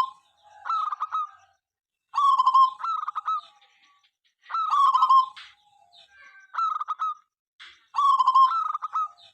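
Local zebra dove (perkutut) cooing. It repeats short phrases of quick, stuttering notes every second or two, with brief silences between them.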